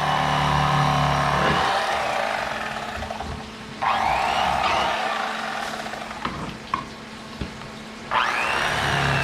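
A steady motor hum that stops about a second and a half in, then water from a kitchen tap running in spells over fish fillets, with a few light knocks.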